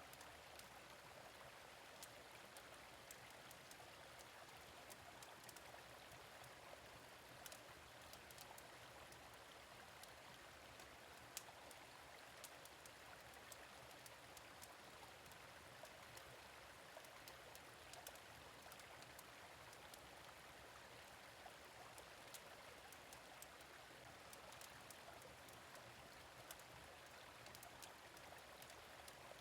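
Faint, steady running of a gentle stream, with scattered small crackles and pops from a fire pit.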